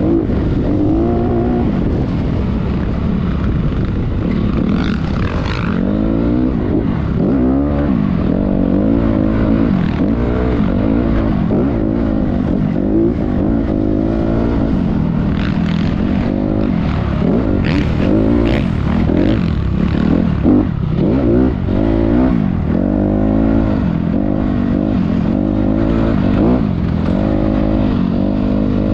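Motocross motorcycle engine being ridden, its pitch repeatedly rising and falling as the throttle is worked.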